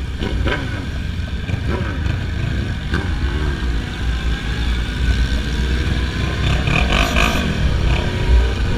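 Motorcycle engines revving up and down, over a steady low rumble of wind on the microphone; over the second half one engine's pitch climbs steadily as it accelerates.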